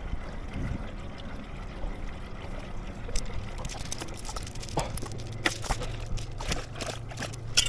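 Boat anchor being hauled aboard by hand: water pouring and dripping off the wet anchor line, with a steady low rumble underneath. From about three seconds in come scattered sharp clinks and knocks, more frequent near the end, as the anchor gear comes into the boat.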